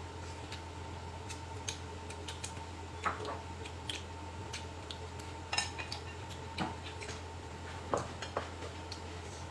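Utensils clinking against dishes at a meal: a few scattered light clicks and taps over a steady low hum.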